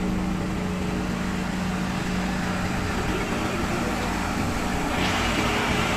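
Steady drone of a vehicle in motion, an even engine hum under road noise, with a brighter hiss swelling about five seconds in.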